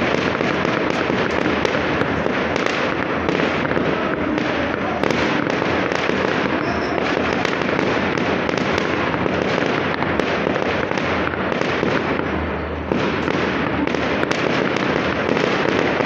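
Fireworks going off in a dense, continuous barrage of crackles and bangs. A brief lull late on is broken by a sharp bang.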